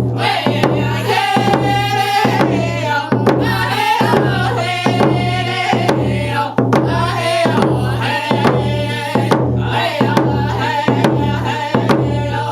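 Round dance song: voices singing over hand drums struck in a steady, even beat.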